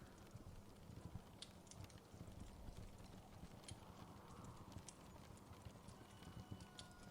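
Faint crackle of a wood fire: scattered, irregular sharp pops and ticks over a steady low rumble.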